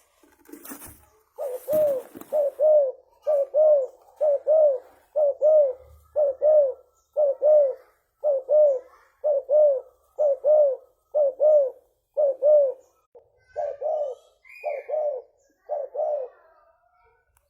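Spotted dove cooing: a long, even series of low, paired coo notes repeated about once a second. A brief rustle comes near the start.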